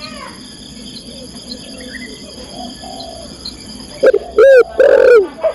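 Female spotted dove (tekukur) cooing to call a male: a run of loud, arched coo notes starting about four seconds in. Steady high insect chirring runs underneath.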